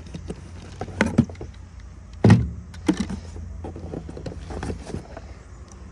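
Irregular knocks, clatters and rustles of new truck parts being handled and unpacked, the loudest a single knock about two seconds in, over a steady low hum.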